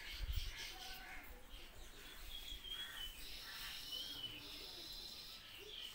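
Faint bird chirps: short, wavering high calls heard a few times over low background hiss, with a low thump just after the start.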